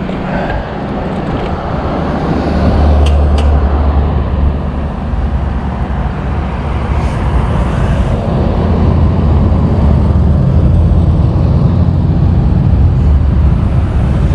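A motor vehicle's engine running steadily close by, with a low hum that grows louder about two seconds in and then holds.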